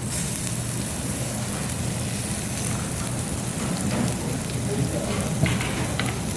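Pork galbi sizzling on a tabletop grill plate: a steady hiss, with a few light clicks near the end.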